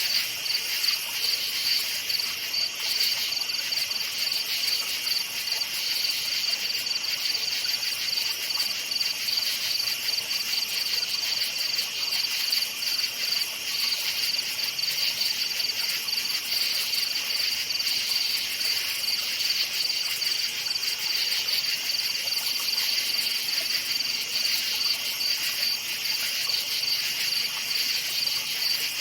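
Crickets chirping in a steady chorus, a continuous high-pitched pulsing trill with a fainter lower band beneath it.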